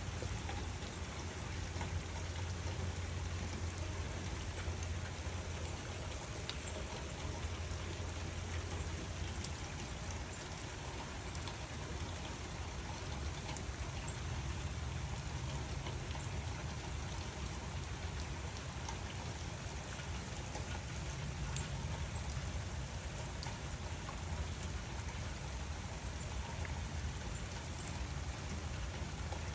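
Steady rain falling, an even patter of drops with a low rumble underneath and scattered sharper drips.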